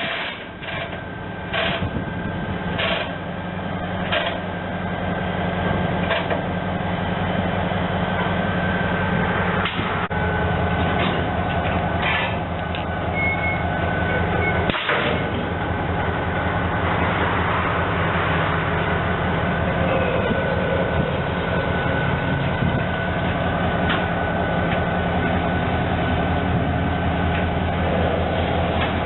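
Diesel-electric freight locomotive, an EMD SD40-2W, running with a steady low engine rumble that grows louder over the first few seconds. It is punctuated by sharp knocks about every second and a quarter at first, and another sharp knock about 15 seconds in.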